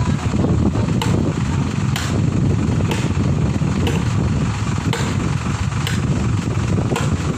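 Vehicle engine running steadily, with a few light clicks over it.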